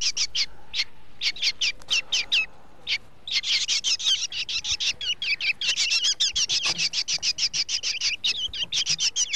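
Birds chirping: a quick run of short, high chirps, sparse at first and near-continuous from about three seconds in.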